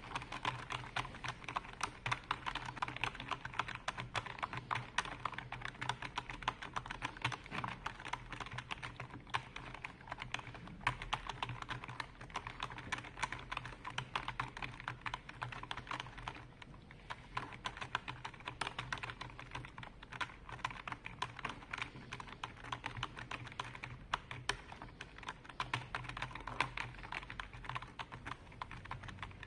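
Continuous fast typing on a computer keyboard: a dense, unbroken stream of key clicks, easing briefly a little past halfway.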